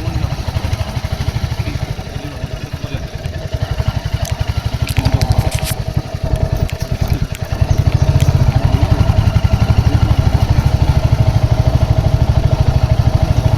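Royal Enfield Hunter 350's single-cylinder engine running on the move, its exhaust beat pulsing steadily, with a few light rattles about five seconds in; the engine gets louder about eight seconds in and stays there.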